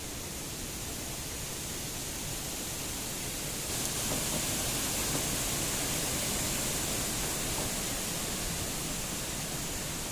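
Steady rain falling, an even hiss that gets louder about four seconds in.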